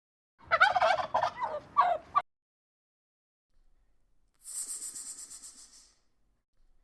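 Turkey gobbling in a rapid, warbling rattle for under two seconds. About two seconds later comes a quieter, high hiss with a fast flutter.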